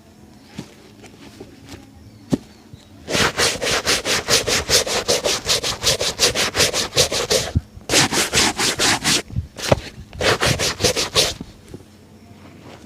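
A shoe being buffed by hand with fast back-and-forth strokes, about four or five a second, in three runs separated by short pauses.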